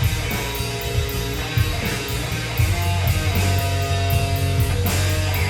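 Rock band playing live through an instrumental passage: electric guitar strumming over bass and a steady drum beat.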